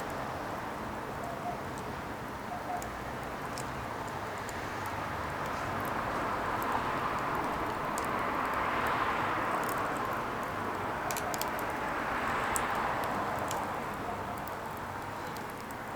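Firewood burning: a steady hiss of flame that swells in the middle and eases off near the end, with scattered sharp crackles and pops.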